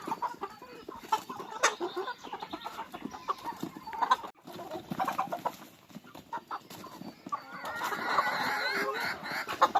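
A flock of chickens clucking and chirping, with many sharp taps as they peck at a hanging cabbage; the clucking grows busier and denser near the end.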